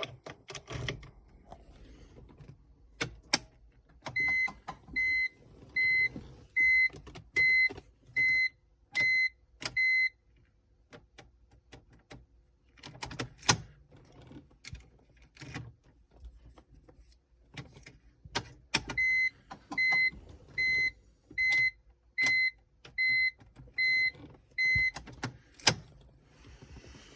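BMW E46 325Ci cabin warning chime beeping in two runs of about eight evenly spaced high beeps, with sharp clicks scattered between them. No engine cranking or running is heard, as the car fails to crank or start.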